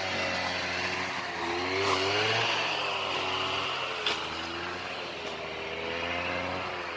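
Engine running and being revved, its pitch rising and falling back a few times, with a sharp click about four seconds in.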